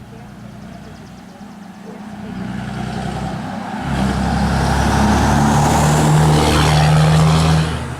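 A truck approaching and driving by. Its engine and road noise grow louder over several seconds, then drop off sharply near the end.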